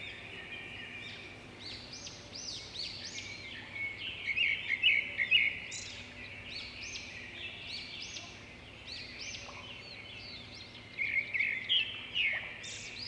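Several small birds chirping and calling over one another in a dense chorus, with louder bursts of rapid chirps about four seconds in and again near the end.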